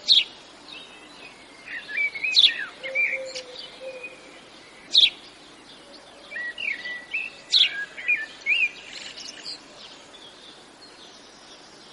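Small birds chirping and twittering in short phrases with gaps, a few sharp loud calls standing out, over a faint outdoor background.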